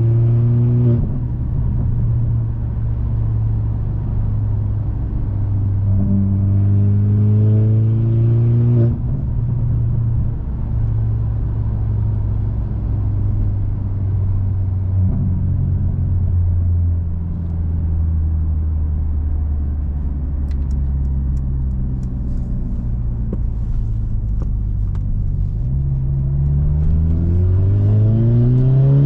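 Mercedes-AMG C43 (W206) turbocharged four-cylinder running through a catless downpipe and aftermarket Fi exhaust under way: a brief climb in pitch that cuts off sharply, as at a gear change, then a steadier drone that slowly sags, then a strong rising pull near the end as it accelerates.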